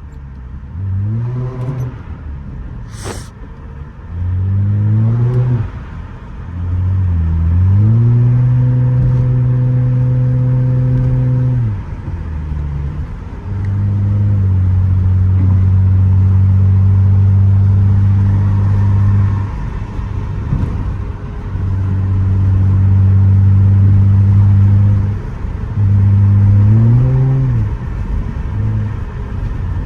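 Straight-piped Nissan Altima exhaust under repeated hard acceleration. The engine note rises in pitch, holds steady for several seconds, drops away, then pulls up again. There is a sharp crack about three seconds in.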